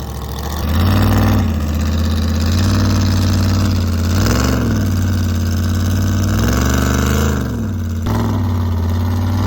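Off-road vehicle engine running steadily in deep snow, revving up briefly twice, about four and a half seconds in and again around seven seconds.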